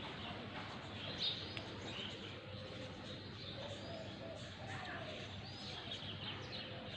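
Small birds chirping, with short high calls scattered through, over a steady background hum of neighbourhood ambience.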